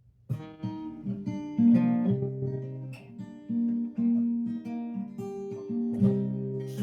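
Acoustic guitar with new strings playing a song's intro, plucked and strummed chords ringing out, starting a moment in.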